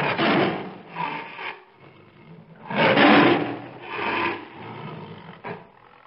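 Tiger roaring in a series of calls, the loudest about three seconds in, trailing off toward the end.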